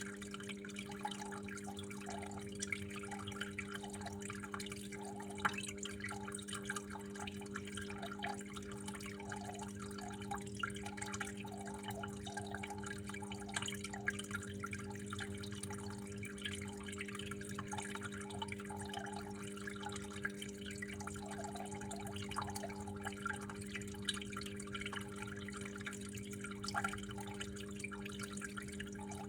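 Water flowing in a small trickle with many irregular drips and splashes, over a steady low hum.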